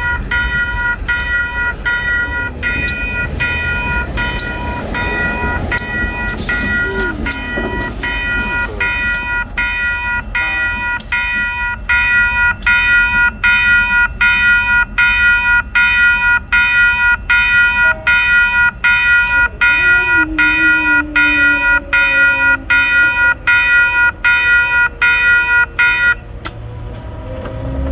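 Railroad grade-crossing warning bell ringing in steady repeated strikes, about one and a half a second, over the low rumble of a freight train. The bell grows louder about halfway through and stops shortly before the end.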